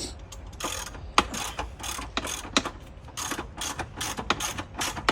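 Hand ratchet clicking in quick, uneven strokes as a bolt is worked loose.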